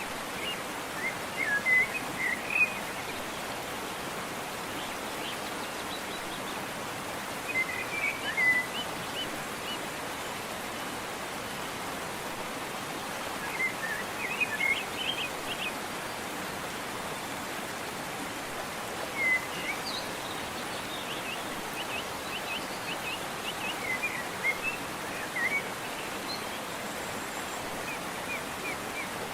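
Steady rush of a waterfall, with a songbird singing short chirping phrases over it about every five or six seconds.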